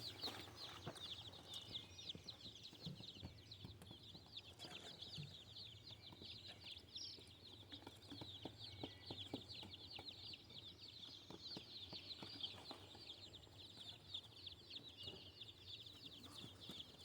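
A crowd of day-old meat-bird chicks peeping constantly, many high overlapping chirps several times a second.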